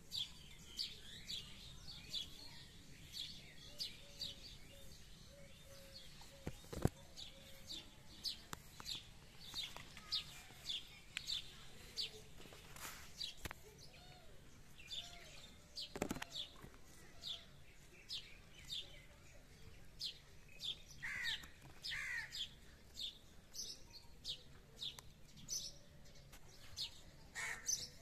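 Small birds chirping: short high chirps repeating roughly twice a second, with a couple of lower downward-sliding calls about three-quarters of the way through. Two sharp clicks stand out, one about a quarter of the way in and one just past the middle.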